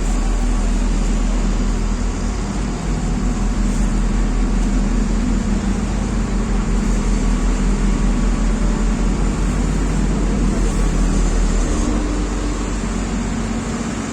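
A large engine running steadily with a loud low hum.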